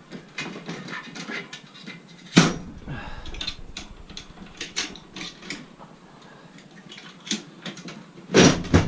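Pieces of scrap metal being handled and knocked together while being sorted, a run of clinks and clanks with a loud clank about two and a half seconds in and several more near the end.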